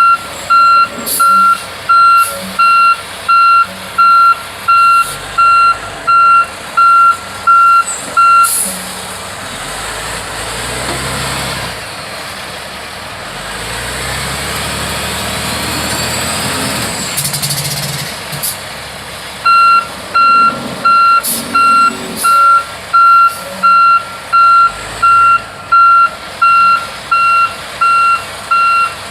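Heavy military truck's reversing alarm beeping steadily, about one and a half beeps a second, as it backs up in mud. The beeping stops after about eight seconds while the diesel engine revs up twice, then starts again for the last ten seconds.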